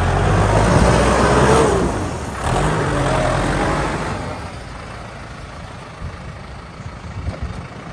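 Case JXU105 tractor's diesel engine revving up and back down twice, loud at first, then growing quieter through the second half.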